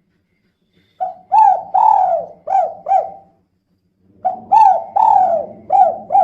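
Female spotted dove (tekukur) cooing, two phrases of about five arched coos each, roughly three seconds apart.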